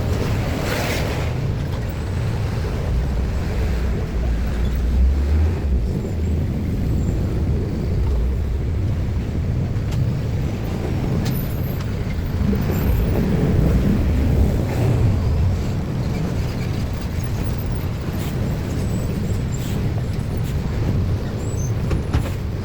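Steady low rumble of motor vehicle traffic at a railway level crossing, with a brief hiss about a second in.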